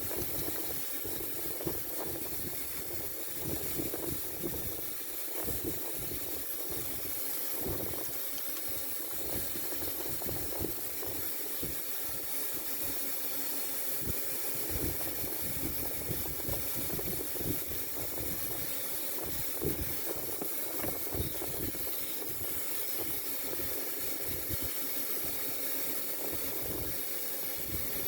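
Steady hiss with scattered, irregular light knocks and clinks, typical of small metal parts being handled and set in place.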